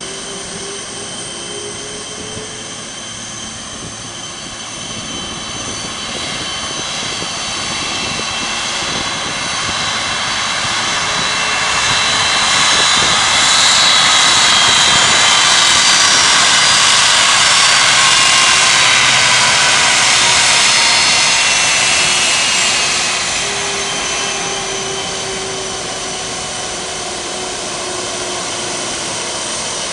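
Jet engines of a four-engined Boeing 747 airliner with a whine that slides slowly down in pitch. The noise swells to its loudest in the middle, then fades.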